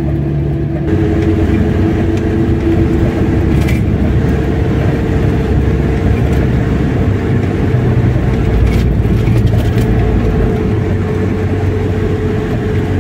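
A car driving along at steady speed: a continuous engine and road hum with a steady drone, and a couple of faint clicks about four and nine seconds in.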